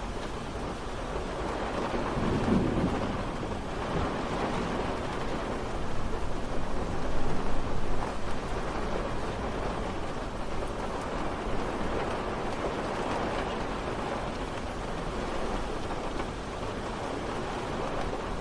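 Steady rain falling, with a low rumble of thunder about two seconds in and a louder stretch a few seconds later.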